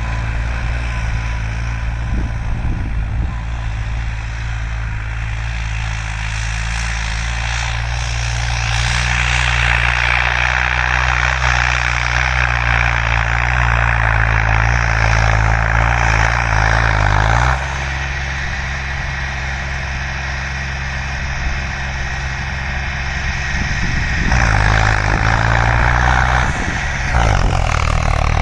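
Farmtrac 60 PowerMax tractor's turbocharged diesel engine running hard. A loud rushing hiss joins the engine note about a third of the way in and cuts off suddenly just past halfway, where the engine note changes. The hiss comes back briefly near the end and cuts off again.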